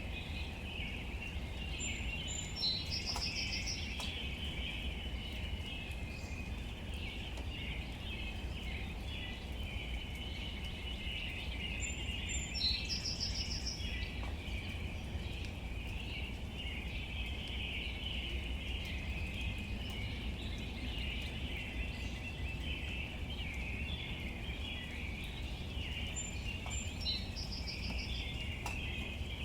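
Steady natural outdoor ambience: a dense, high, chirring background chorus over a low rumble, with a bird calling a short high phrase three times, about ten to fifteen seconds apart.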